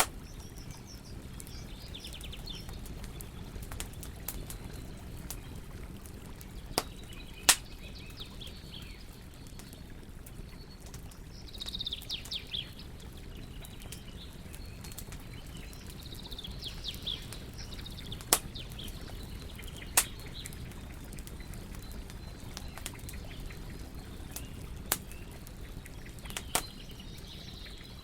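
Wood fire crackling, with a handful of sharp, loud pops scattered through it over a steady low rumble. Short bursts of bird chirping come and go in the background several times.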